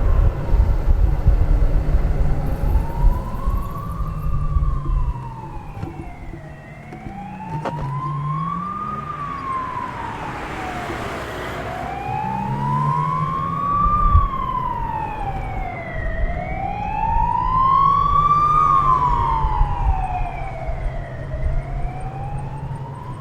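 An emergency vehicle's wailing siren, its pitch sliding slowly up and down about every four to five seconds. Wind buffets the microphone strongly during the first few seconds.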